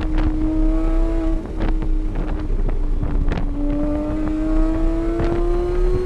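Engine of a track vehicle running at speed, heard onboard with wind noise: its note holds fairly steady, dips slightly about halfway, then rises slowly as it accelerates, with scattered short knocks throughout.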